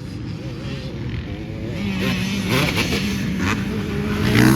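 Dirt bike engines revving on a motocross track, the pitch wavering, then holding steady from about two seconds in and climbing near the end.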